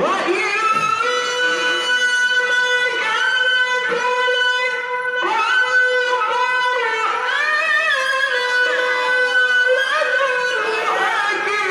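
A male qari's voice reciting the Quran (tilawah) in a very high register, holding long notes and sliding through ornamented melismatic turns between them.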